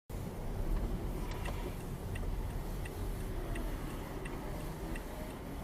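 A car's turn-signal indicator ticking steadily, about one and a half ticks a second, over the low drone of the moving car.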